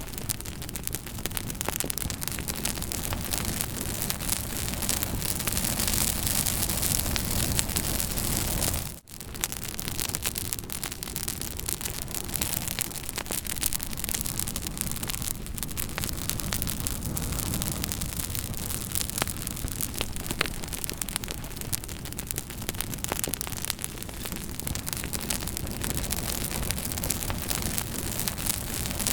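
Campfire burning with a steady hiss and dense crackling and popping from the burning wood. The sound drops out for an instant about nine seconds in.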